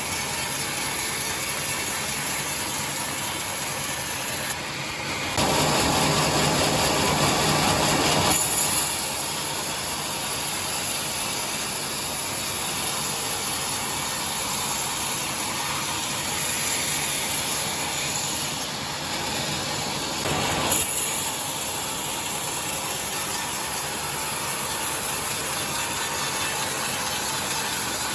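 Sawmill saw running steadily while ripping boards. It gets louder for about three seconds starting some five seconds in.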